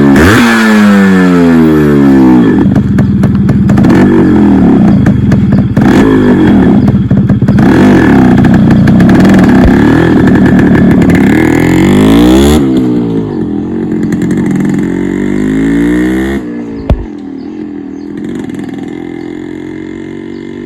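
Yamaha RX135's two-stroke single-cylinder engine being ridden, its pitch repeatedly rising and falling as it revs up and shifts through the gears. It is loud for about the first twelve seconds, then falls away, and is much quieter after a single knock about seventeen seconds in.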